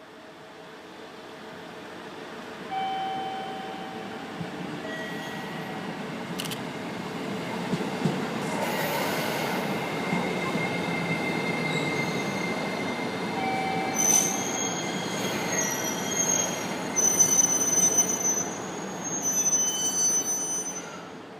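An E653-series limited express train running through the station, its rumble building steadily. In the second half come several high-pitched wheel and brake squeals.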